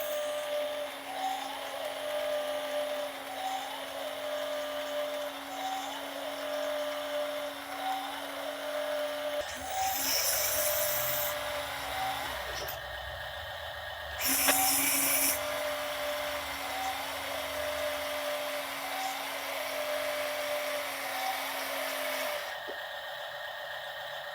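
Small electric motor of an RC dump truck whining steadily, with a short higher tone repeating about once a second. The whine drops out for about five seconds midway, replaced by a low rumble, with a brief loud burst as it comes back.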